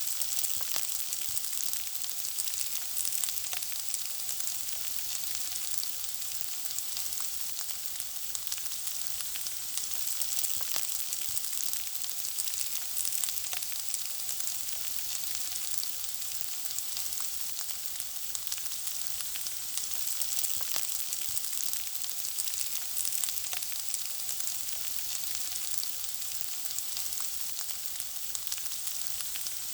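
Food frying in hot oil: a steady sizzle with many small crackling pops.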